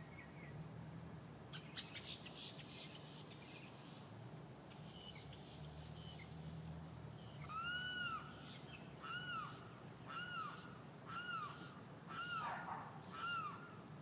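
A bird calling: a brief chattery burst a couple of seconds in, then, in the second half, a series of six rising-and-falling call notes about a second apart.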